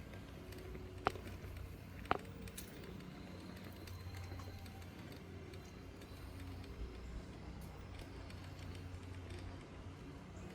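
Quiet outdoor background with a steady low rumble, broken by two sharp clicks about a second apart near the start.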